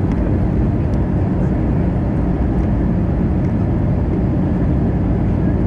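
Steady cabin noise inside an Airbus A320: an even rush of engine and airflow with a constant low hum.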